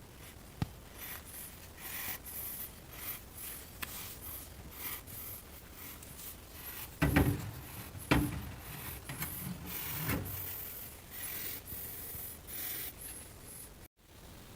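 Repeated short rubbing and scraping strokes, with a sharp click near the start and two heavier knocks about seven and eight seconds in.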